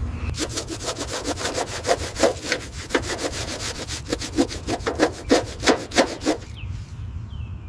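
Fast back-and-forth rasping strokes of a hand tool scraping or sawing, about five strokes a second, stopping about six seconds in, over a low steady rumble.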